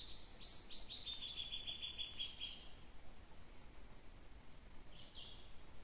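A bird singing: a few quick falling high notes run into a fast trill, about eight notes a second, for a second and a half, then one short call near the end.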